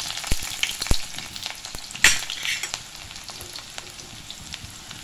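Sliced onions sizzling as they fry in hot oil in a steel karahi, browning, while a metal ladle stirs and knocks against the pan. There are a few sharp knocks, the loudest about two seconds in, then only a quieter sizzle goes on.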